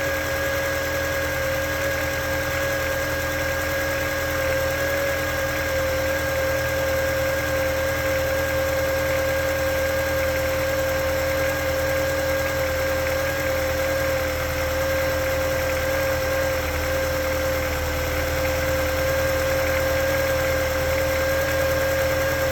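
Honda S2000 engine idling, with a steady whistling tone held over the engine note.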